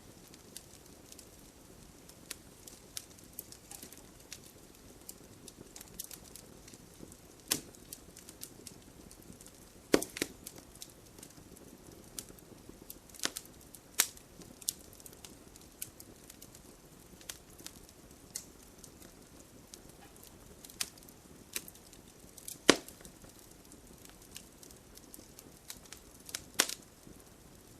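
Campfire crackling: a low steady hiss of burning wood with irregular sharp pops and snaps, a few louder cracks among them.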